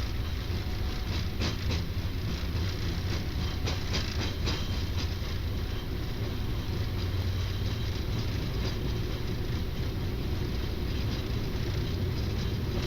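Boeing 777-300ER on its takeoff roll heard from the flight deck: a steady rumble from its two GE90 engines at takeoff thrust and the wheels on the runway. A run of sharp knocks and rattles comes in the first few seconds, then the rumble carries on evenly.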